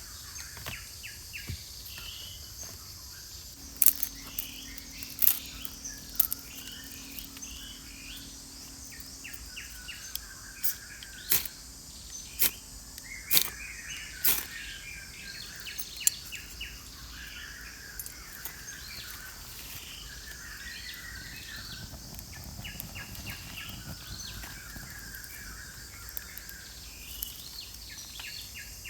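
Forest ambience: birds chirping over a steady high insect drone, broken by about eight sharp knocks or snaps between about four and sixteen seconds in.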